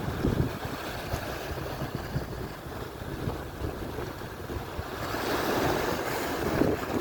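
Atlantic surf breaking and washing on the shore, with wind buffeting the microphone; a wave rushes in louder about five seconds in.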